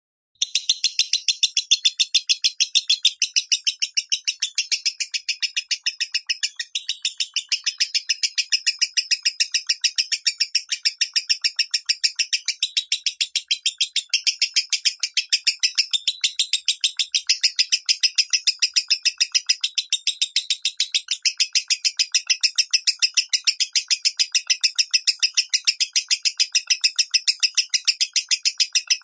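Lovebird singing in the 'minor' song style: a long, unbroken run of rapid, high chirps, several a second at an even pace, starting about half a second in.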